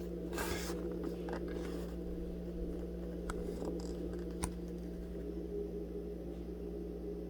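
Quiet room tone with a steady low electrical hum, a brief rustle about half a second in, and a few faint clicks.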